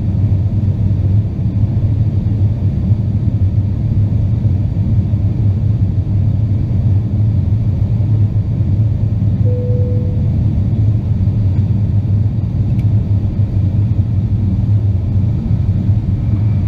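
Steady low rumble of cabin noise inside an Avro RJ85 airliner, from its four turbofan engines and the airflow, with a brief faint tone about halfway through.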